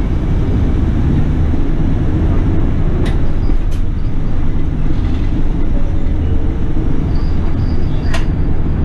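Toei city bus running along a route, heard from inside the cabin: a steady low rumble of engine and road noise, with a few short sharp clicks.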